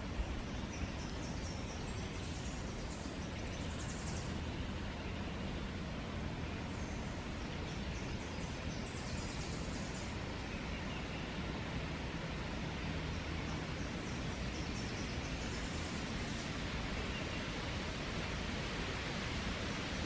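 Steady wind noise rushing over the microphone. A bird's high, rapid trill comes in every several seconds.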